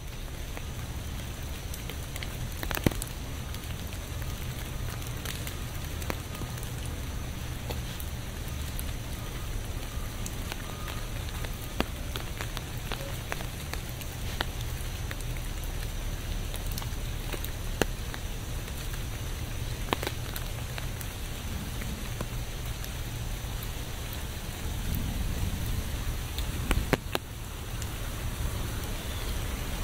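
Steady rain falling, with scattered sharp ticks of single drops striking a surface and a few louder drop hits.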